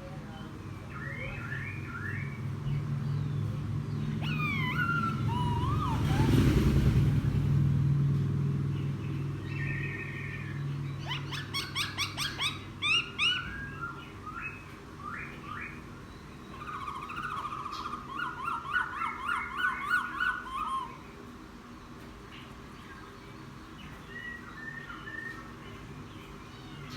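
Laughingthrush singing in varied phrases: sliding whistles, runs of quick repeated notes and chattering trills, over a steady low hum. A louder rushing swell comes about six seconds in.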